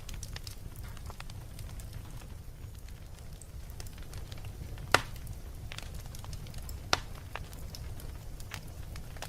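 Wood fire burning in a fireplace: a steady low rumble of the flames with scattered crackles, and two louder pops about five and seven seconds in.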